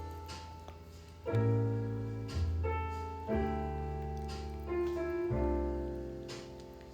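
Piano music playing: chords struck every second or so, each with a low bass note, ringing and fading before the next.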